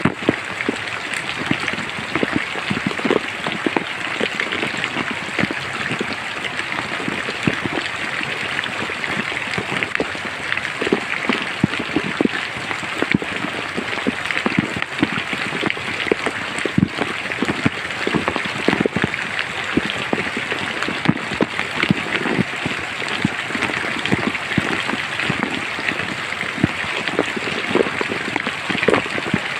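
Steady rain falling in a forest, an even hiss with many large drops striking close by at irregular intervals, several a second.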